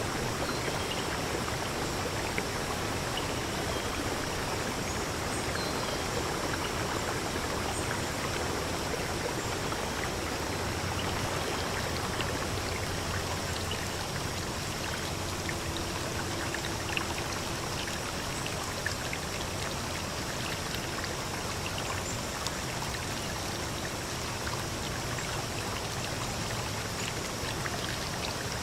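Stream flowing steadily, an even rush of water with faint scattered drips and splashes.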